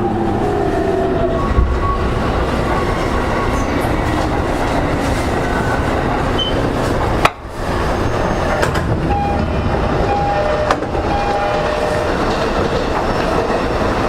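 JR East E231-0 series electric train heard from inside a motor car as it brakes into a station. The whine of the traction motors falls in pitch around the start, the wheels and running noise carry on over it, and there is a brief sudden dip in the sound about seven seconds in as the train comes to a halt.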